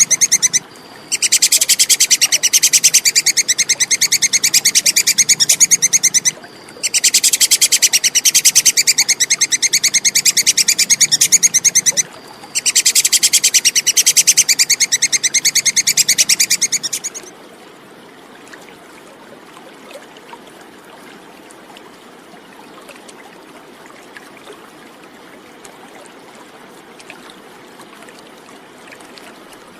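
Tupai kekes squirrel giving its fast, high-pitched chattering call in long bouts of about five seconds each, with short breaks between them. The calling stops about 17 seconds in, leaving only faint background noise.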